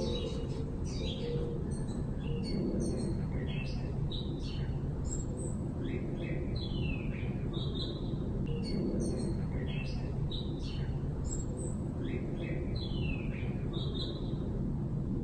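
Songbirds outdoors chirping and singing over and over in short falling notes, over a steady low background rumble.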